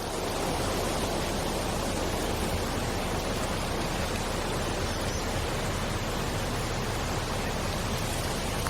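Rain falling steadily, a continuous even hiss with no distinct drops, thunder or other events.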